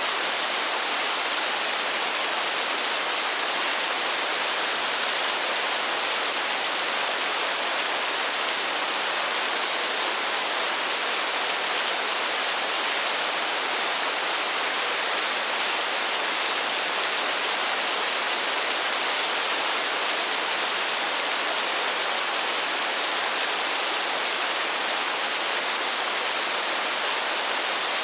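Steady rain falling on a forest: an even, unbroken hiss with no single drops or other sounds standing out.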